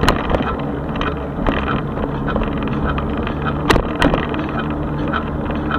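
Electric bike in motion: steady road and tyre rumble with a low hum, light rattles and ticks, and a few sharp knocks, the loudest a little under four seconds in.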